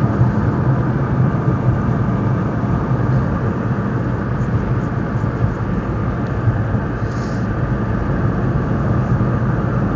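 Steady road and wind noise of a car driving with the side window down, heard from inside the cabin on a clip-on microphone used without its windscreen.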